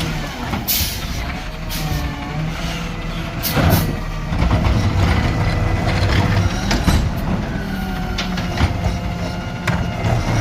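Garbage truck engine running steadily, with sharp air-brake hisses and several clanks and knocks.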